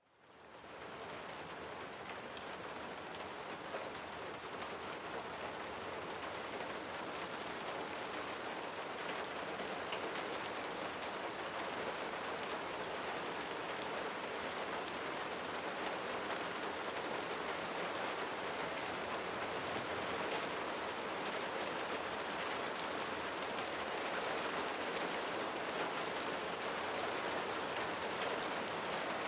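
Steady rain falling on leaves, a dense patter of drops. It fades in from silence at the start and builds over the first several seconds, then holds steady.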